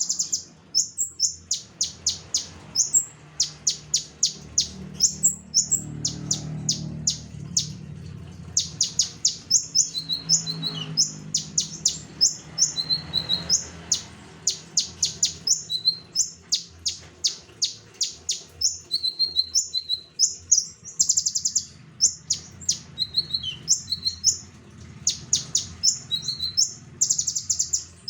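Common iora (konin) singing in a continuous, lively stream: rapid runs of high, sharp chirps and quick repeated notes, broken now and then by short lower whistled phrases.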